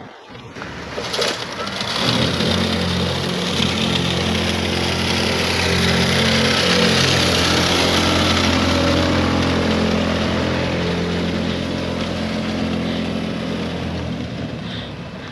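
Truck engine running as it drives past with its salt spreader at full setting throwing salt, a steady engine drone over a broad hiss. The sound builds about two seconds in, is loudest around the middle and fades near the end.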